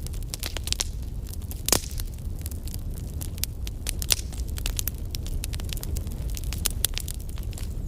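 Wood fire burning: frequent sharp crackles and pops over a steady low rumble, with one louder pop nearly two seconds in.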